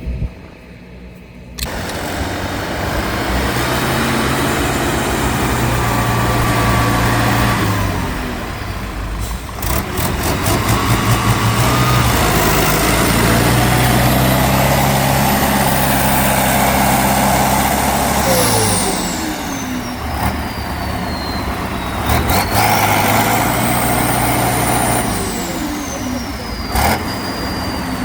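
Offroad truck engine running hard and revving, its revs climbing and holding, then falling away twice. A high whine sweeps down and back up midway.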